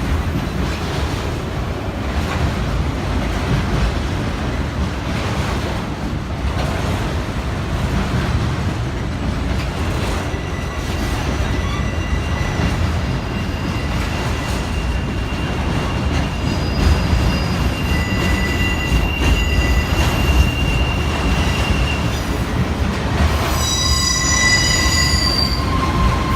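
A train rolling past with a steady low rumble. From about ten seconds in, the wheels begin squealing on the rails in thin steady tones, and near the end the squeal grows into several pitches at once.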